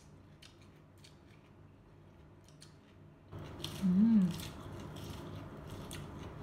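Close-up crunching and chewing of raw vegetables, faint and sparse at first, then louder and crisper a little over three seconds in. About four seconds in, a short wavering hummed "mmm" through a full mouth.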